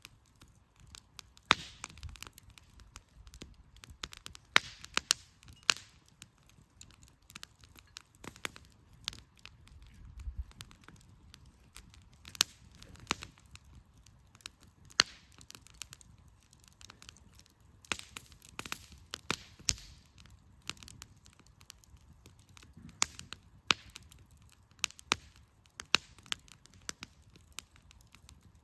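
Firewood campfire crackling, with irregular sharp pops, a number of them loud.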